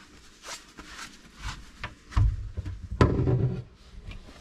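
Scattered clicks and knocks of objects being handled, with louder dull thumps about two and three seconds in.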